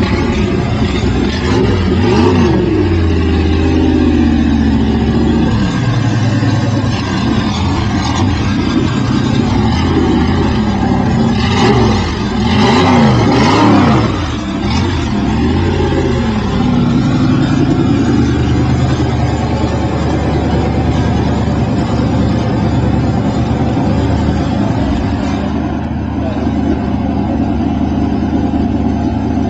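Modified dirt track race car's engine running, revved up and down a few times: once a couple of seconds in, then several quick, louder revs around the middle, before settling back to a steady idle.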